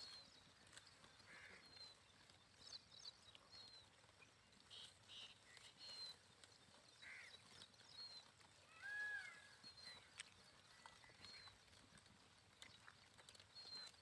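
Faint birdsong: a short, high, falling chirp repeated every second or two, with a few lower whistled calls, the clearest about nine seconds in, over soft scattered clicks.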